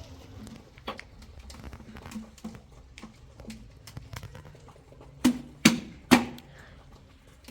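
A scattering of light clicks and knocks, then three loud, sharp knocks in quick succession between about five and six seconds in.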